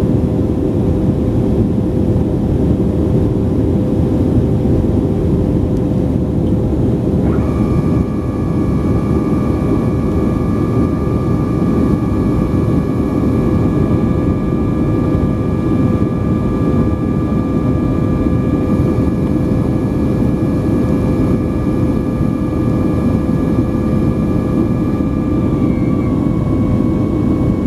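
Boeing 737 cabin noise during the climb: a steady, loud rush of jet engines and airflow with a constant hum. About seven seconds in, a higher multi-tone whine starts and holds, dropping slightly in pitch near the end.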